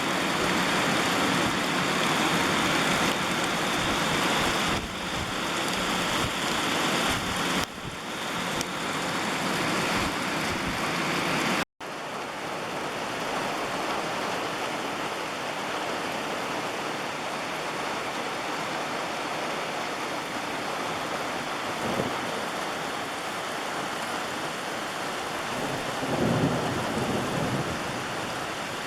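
Heavy rain falling steadily as a dense hiss, louder for the first dozen seconds, then briefly cut off and resuming a little quieter.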